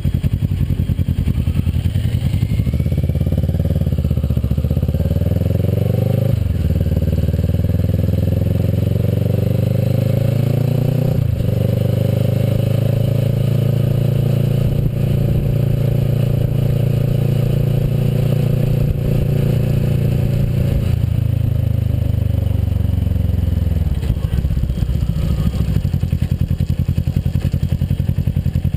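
Kawasaki Versys motorcycle engine pulling up through the gears, with two upshifts about six and eleven seconds in. It then holds a steady cruise before easing off and dropping in pitch near the end.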